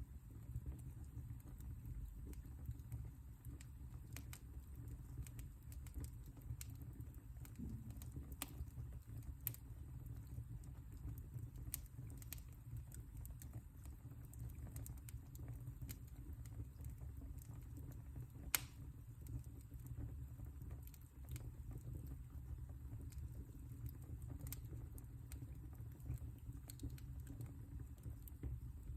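Fire burning in a fireplace: a low, steady rumble of flame with scattered small crackles and pops, and one sharper pop about two-thirds of the way through.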